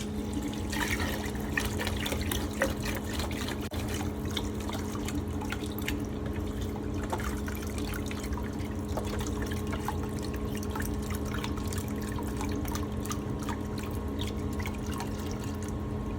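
Small submersible pump running in a bucket with a steady hum, while water trickles and drips back into the bucket: descaling solution circulating through a tankless water heater.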